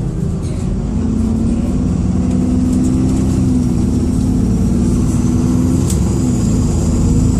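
Dennis Trident II / Enviro400 double-decker bus engine pulling under load, heard inside the bus, with the engine note building about a second in. A thin, high turbocharger whistle like a kettle about to boil sits above it and grows louder, rising slightly near the end.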